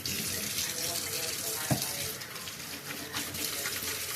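Kitchen tap running into a sink as hands are washed under it, a steady hiss of water, with a single knock about two seconds in.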